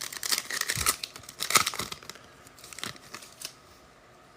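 Foil wrapper of an Optic retail football card pack being torn open and crinkled, a dense crackly rustle for about the first two seconds, then a few light handling clicks before it goes quiet.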